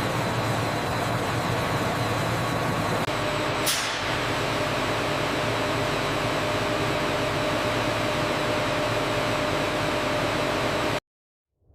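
Machinery running steadily: a continuous drone with faint high whines held on top. A brief high swish sounds about four seconds in, and the drone cuts off abruptly near the end.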